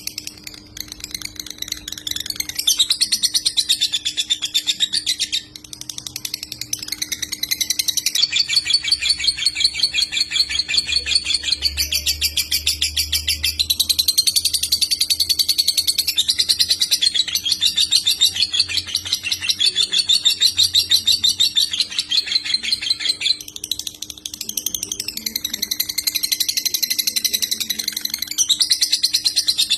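Lovebird singing in the konslet style: long runs of very fast, high chattering trills, each lasting several seconds, with brief breaks between runs. A faint steady hum sits underneath.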